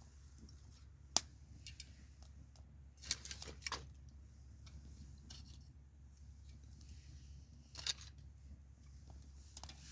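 Wood fire crackling: scattered sharp pops and snaps, a cluster about three seconds in and another near eight seconds, over a faint steady low hum.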